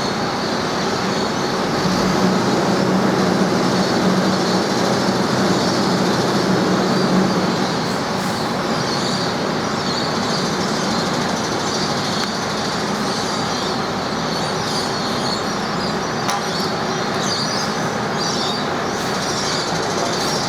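A train running with a steady mechanical noise, a little louder from about two to seven seconds in.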